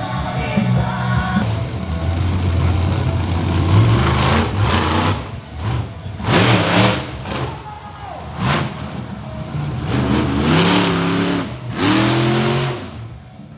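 Monster truck engines revving in several loud bursts, rising and falling in pitch, over music on the arena sound system.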